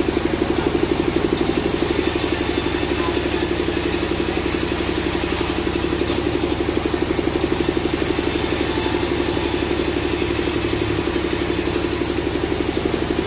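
Sawmill machinery running steadily, a motor-driven hum with a fast, even pulse.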